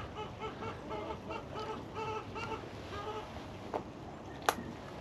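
Hens clucking in a quick run of short calls, fading out after about three seconds, followed by two sharp clicks near the end.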